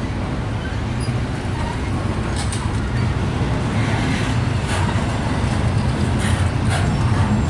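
Double-stack intermodal well cars of a CSX freight train rolling past close by: a steady low rumble of steel wheels on rail, with a few irregular clicks and clanks.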